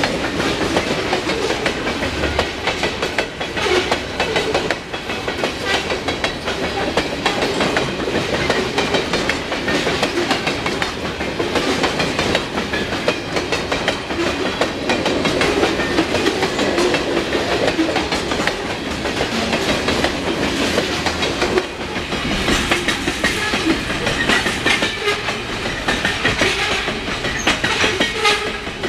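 A freight train's cars rolling past, the wheels clicking steadily and densely over the rails.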